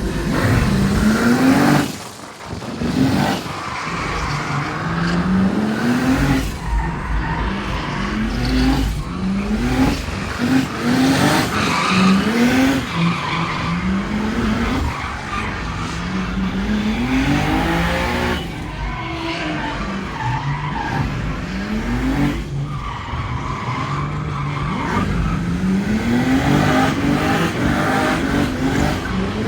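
Drift car's turbocharged 2JZ-GTE straight-six engine revving hard, its pitch climbing again and again every couple of seconds as the throttle is worked through a drift, with tires skidding and squealing throughout. The sound dips briefly about two seconds in.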